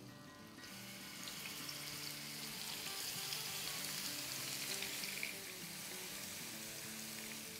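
Marinated chicken pieces dropping into hot oil and butter in a frying pan and sizzling, starting sharply about half a second in, loudest in the middle and easing a little after about five seconds.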